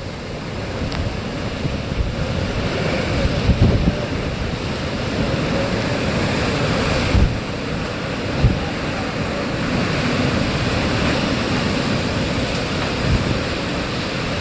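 Hurricane wind blowing steadily, with gusts buffeting the microphone in irregular low thumps.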